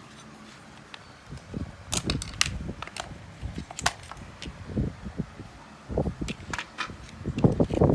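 Sharp plastic clicks and knocks with low handling bumps as a Hitachi 12 V cordless drill's housing and parts are worked apart by hand. The clicks come at irregular times, and the handling bumps get busier near the end.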